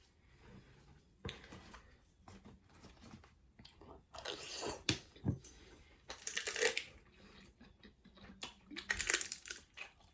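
Close-miked eating sounds: whole chicken being torn apart and chewed, soft clicks and mouth sounds broken by three louder stretches of tearing and crunching, about four, six and nine seconds in.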